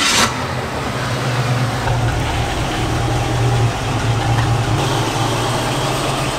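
Ford Mustang's engine idling steadily and smoothly.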